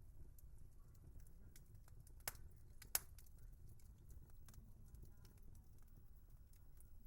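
Wood fire crackling: a steady scatter of small ticks and snaps over a low rumble, with two sharper pops a little over two and three seconds in.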